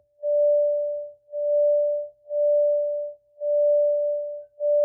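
A single steady, pure meditation tone pulsing on and off about once a second, each pulse swelling in and fading away.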